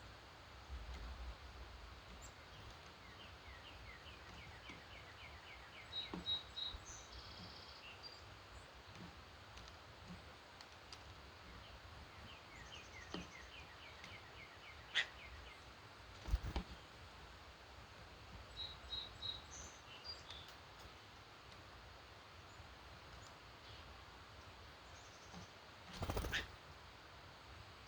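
Wild birds singing in the early morning: two runs of quick repeated chirps and scattered short high notes over a steady background hiss, with a few brief thumps in between.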